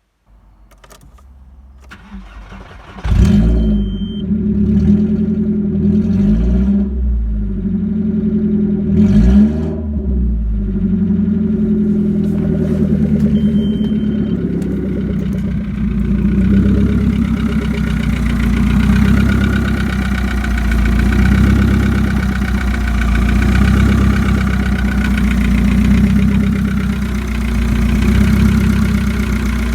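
VW Golf 4 1.4-litre four-cylinder petrol engine (code APE) cranking and catching about three seconds in. It is blipped twice, once just after starting and again around ten seconds, then settles into a steady idle.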